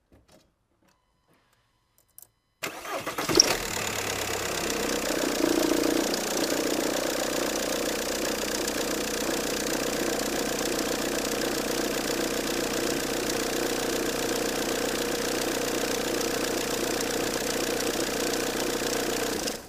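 A VW 1.9 TDI four-cylinder turbodiesel is cranked and catches a few seconds in, then idles steadily and shuts off near the end. The idle carries the belt-drive noise of a rattling belt tensioner, which is traced to a failing alternator freewheel (overrunning) pulley.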